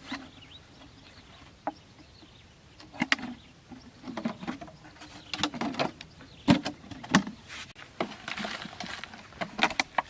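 Irregular knocks, taps and rustling, the loudest few a little past the middle.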